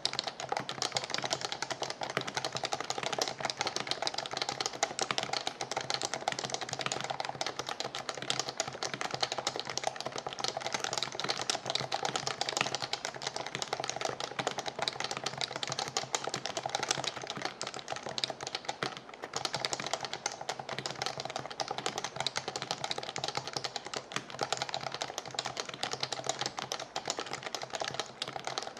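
Continuous fast typing on a computer keyboard: a dense, even stream of keystrokes.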